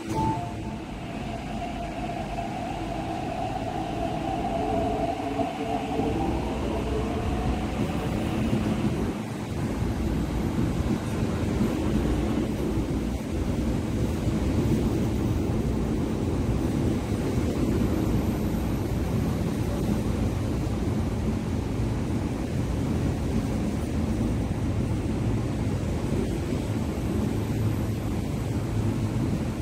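MTR East Rail Line R-train electric train, its motors whining in several tones for the first eight seconds or so. Then a train runs along the platform with a steady rumble of wheels on rails.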